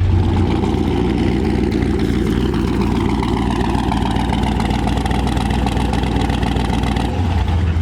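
Turbocharged LS V8 of a Nissan pickup running steadily at low speed.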